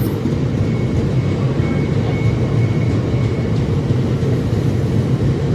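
Class 66 diesel locomotive's aggregate freight train passing, a loud, steady low rumble.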